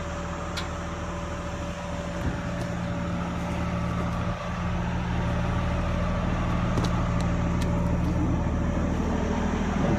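Roll-off truck's diesel engine idling steadily, with a low, even hum.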